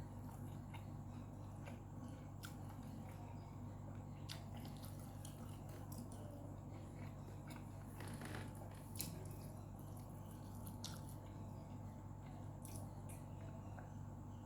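Faint eating sounds close to the microphone: wet chewing and mouth smacks, with scattered short sharp clicks, over a steady low hum.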